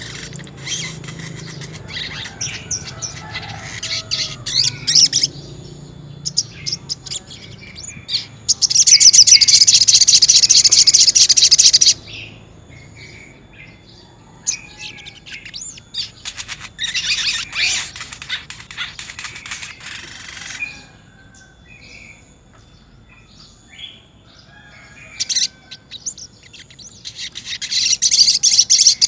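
Brown-throated sunbird (sogok ontong) singing in its rolling 'ngerol' style: scattered quick high chirps broken by loud, rapid trills. One trill starts about nine seconds in and lasts about three seconds, and another starts near the end.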